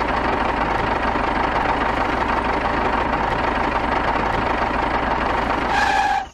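Small engine running steadily with a dense, rapid knocking rhythm.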